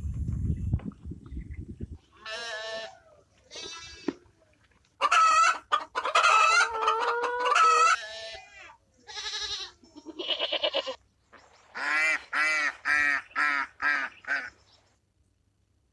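Farm poultry calling: a long, loud crow-like call in the middle and a run of about six quick calls near the end. There is a low rumble in the first two seconds.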